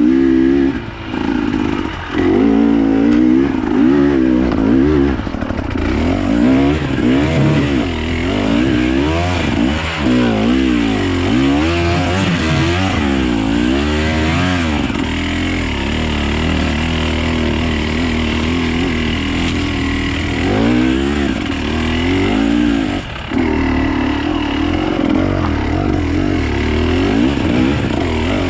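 Off-road motorcycle engine being ridden, revving up and down in quick swings through the first half, then running at a steadier pitch.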